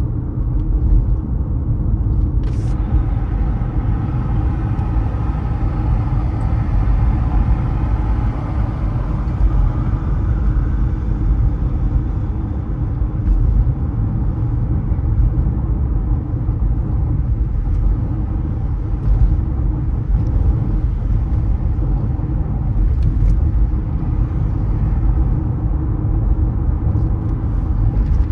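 A car driving on city streets: a steady, deep rumble of road and engine noise. About two and a half seconds in there is a sharp click, followed by a faint whine of several tones that fades out over the next several seconds.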